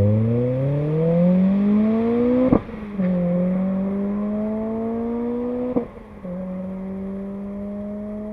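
Renault Clio 3 RS's 2.0-litre four-cylinder engine through an Akrapovic Evolution exhaust, accelerating with the pitch climbing. Two gear changes, about two and a half and nearly six seconds in: each is a short crack and a brief dip, then the revs climb again from lower, more slowly after the second change.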